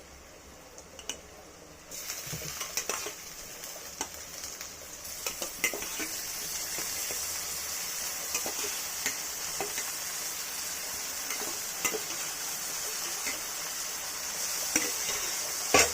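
Boiled chicken pieces frying with onions in oil in a kadai. A steady sizzle starts about two seconds in, and a spatula clicks and scrapes against the pan as it is stirred.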